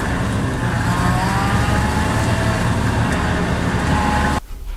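Vehicle engine running with a steady low rumble, which cuts off abruptly about four and a half seconds in.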